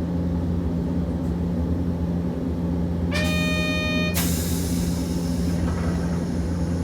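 Hiroden 650-series tram standing at a stop with its equipment humming steadily. About three seconds in, a buzzer sounds for about a second, then a burst of hissing compressed air as the pneumatic doors close, just before departure.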